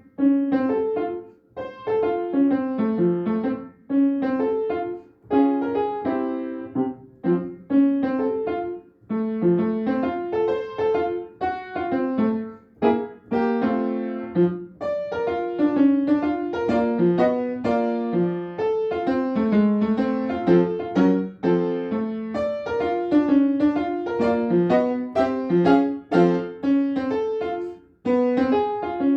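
Solo piano playing a bebop-style student etude in short phrases of quick notes, with brief breaks between phrases.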